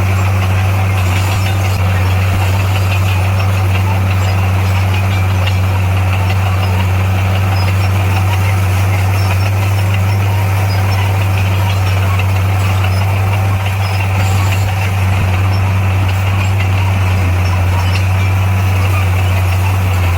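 Diesel engine of heavy earthmoving machinery running steadily as a constant low drone, with a brief slight dip about two-thirds of the way through.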